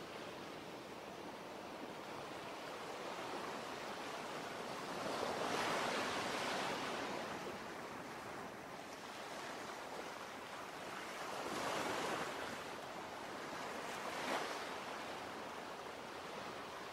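Ocean waves breaking and washing in, a steady hiss that swells three times: around five, twelve and fourteen seconds in.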